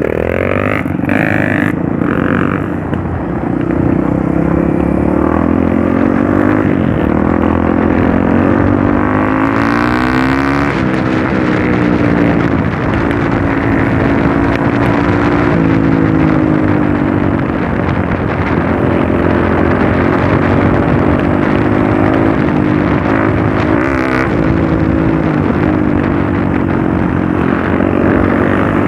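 Dirt bike engine running while riding on a trail, its revs rising and falling continuously.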